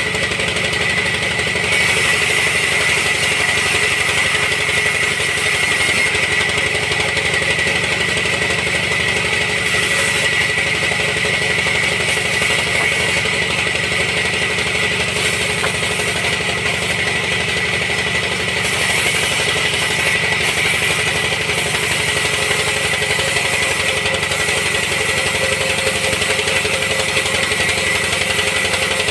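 Sawmill machinery running steadily: a continuous engine-like drone with a steady high whine.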